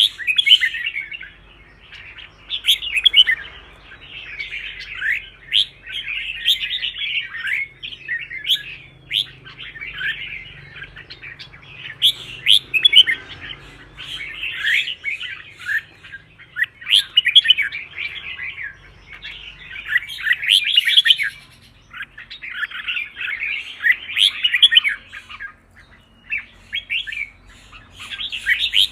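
Red-whiskered bulbul singing: quick, chattering, warbled phrases delivered one after another with short pauses between them.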